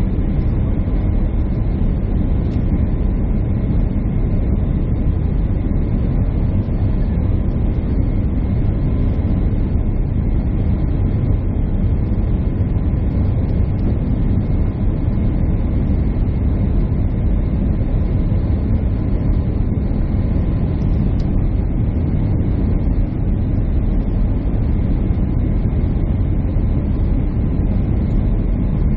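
Jet airliner cabin noise heard from a passenger seat: a steady, even rumble of engines and airflow, with faint steady high tones above it.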